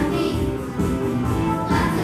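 A choir singing, several voices holding sustained notes.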